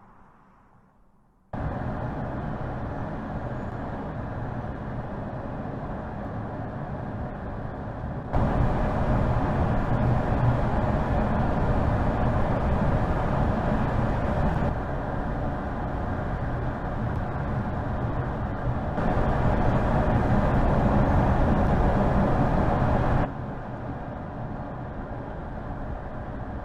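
Steady noise of a car driving, a hum of engine and road noise. It comes in several spliced stretches that change level abruptly, starting suddenly after a moment of quiet.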